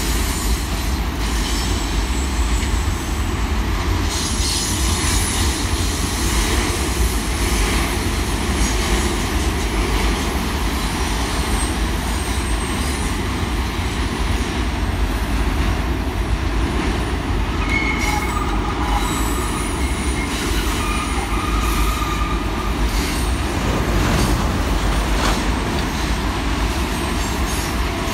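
Double-stack container train's well cars rolling past on steel wheels: a steady, loud rumble of wheels on rail, with thin high-pitched wheel squeals coming and going, more of them in the second half.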